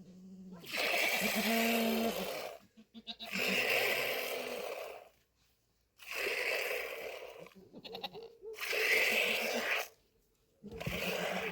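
Goats bleating, about five loud drawn-out calls one after another with short pauses between them.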